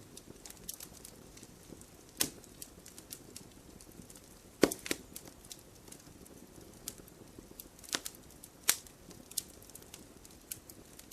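Wood fire crackling in a fireplace: irregular sharp pops and snaps, a few louder ones among many small ticks, over a faint steady low hiss.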